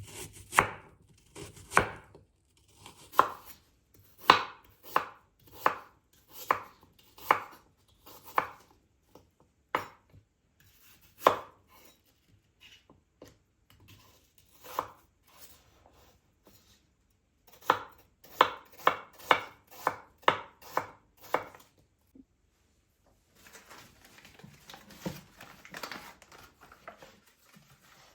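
Knife chopping on a cutting board: sharp, separate strokes, slow and uneven at first, then a quicker run of about three a second. Near the end the chopping stops, and softer rustling and light knocks follow.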